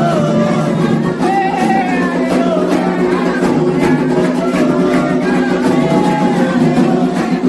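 Candomblé ritual music: voices singing a wavering melody over steady, repeated percussion strikes.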